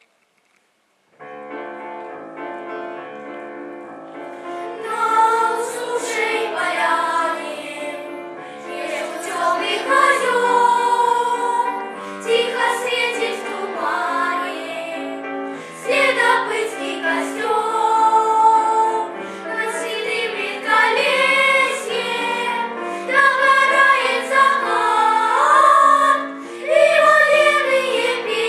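A vocal ensemble singing a song with instrumental accompaniment. The accompaniment starts about a second in, and the voices enter about five seconds in.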